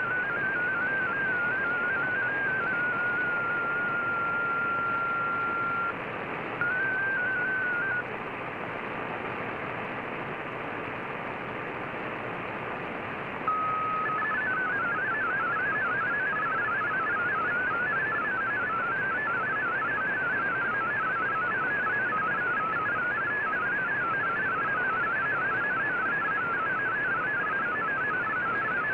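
Shortwave radio receiving a VOA Radiogram digital-mode broadcast over steady band hiss. A warbling MFSK data signal of rapidly hopping tones ends about four seconds in on a held tone, and a short warble follows. After several seconds of hiss alone, a brief steady tone about thirteen seconds in leads into a faster stream of hopping tones.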